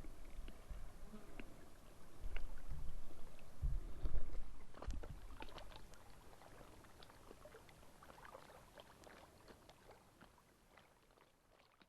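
Canoe paddle strokes in the water: small splashes and drips over a low rumble of wind on the microphone. The rumble is loudest for a few seconds in the middle, and the whole sound fades out toward the end.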